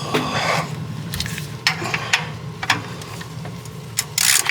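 Several sharp clicks and knocks about half a second apart, with a short noisy burst at the start and a louder one near the end, over a steady low hum.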